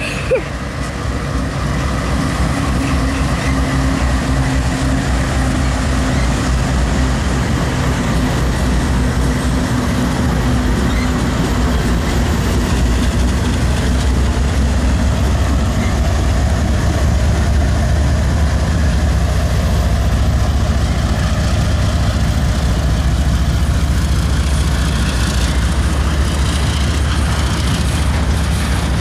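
A lash-up of diesel freight locomotives passing close by under power, their exhaust smoking: a steady low engine drone that grows louder over the first couple of seconds and then holds, with the rumble of wheels on rail.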